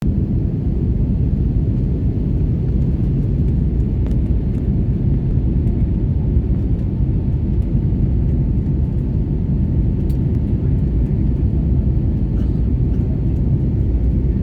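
Passenger airliner in flight just after takeoff: a loud, steady low rumble of engines and airflow that holds even throughout, with a few faint ticks.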